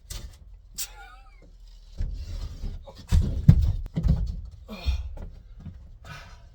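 Sheet of OSB board being shifted and knocked against the wooden ceiling framing: a run of dull wooden bumps and knocks, loudest about three and a half seconds in, with a couple of short vocal grunts of effort.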